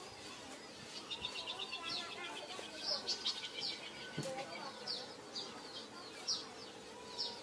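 Wild birds calling: a string of short, high, down-slurred chirps repeated about once a second, with bursts of rapid trilled notes in the first half.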